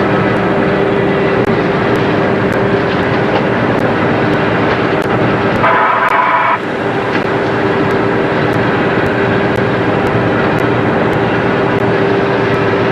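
Boat engine running steadily under way, a droning hum over loud wind and water noise. About six seconds in, a brief high-pitched tone sounds for under a second.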